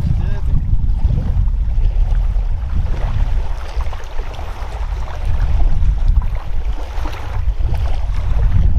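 Wind off the lake buffeting the microphone: a heavy low rumble with a hiss that swells and eases in gusts.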